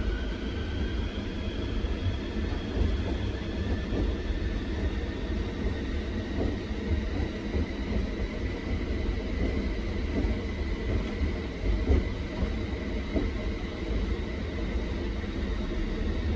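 Manyo Line tram running on its rails, heard from inside the car. The motor whine rises in pitch for the first second or two as the tram picks up speed, then holds steady over a low rumble, with a few knocks from the wheels on the track.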